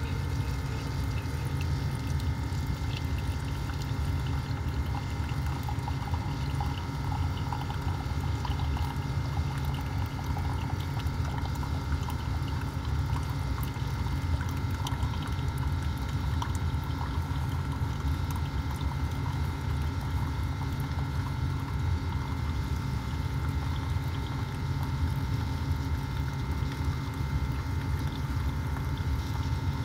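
Keurig K-Mini single-serve coffee maker brewing: a steady low hum from the machine while hot coffee streams into the mug.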